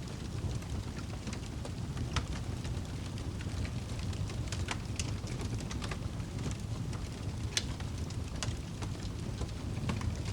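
Wood fire crackling: irregular sharp pops and snaps over a steady low rumble of the flames, with a few louder pops standing out.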